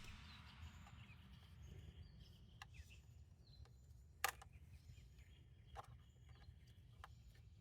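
Near silence, broken by a few faint clicks and one sharper click about four seconds in, from plastic clips and wiring connectors being handled on a car engine.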